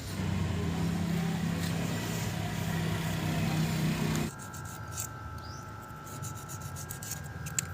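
A steady low mechanical hum for about four seconds that cuts off abruptly, followed by a faint steady high-pitched tone with a few light clicks.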